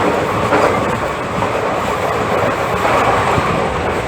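Indian Railways express passenger train running through a station at full line speed without stopping: a loud, steady rush of wheels on rail.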